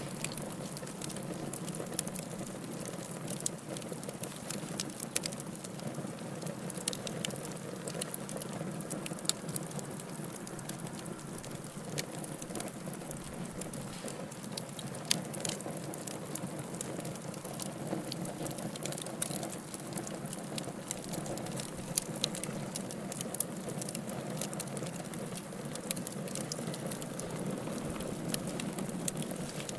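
Wood fire burning in a fireplace: a steady hiss and rumble of flames with irregular sharp crackles and pops.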